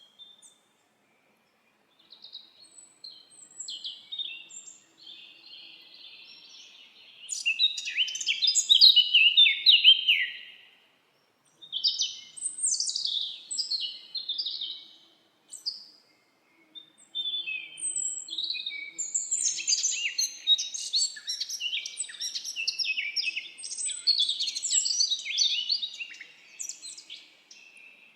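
Songbirds singing: phrases of rapid high chirps and trills. They come in three bursts with short pauses between, the loudest about a third of the way in.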